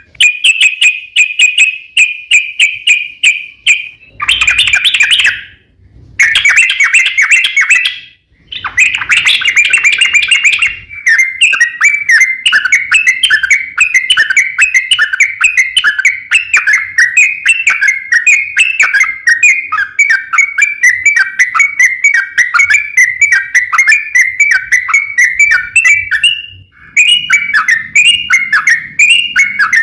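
A crokcokan songbird singing a fast, continuous chattering song of rapid, quick-rising notes, with brief breaks about six, eight and twenty-seven seconds in.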